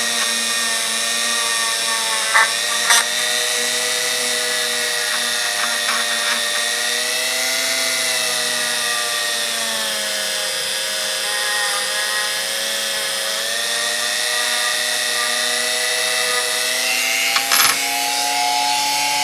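Electric power tool motor running steadily, its pitch dipping slightly and recovering as it is worked against a part, with a few sharp ticks of metal contact.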